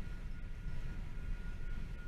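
Freight train of tank cars rolling past: a steady low rumble with faint scattered clicks.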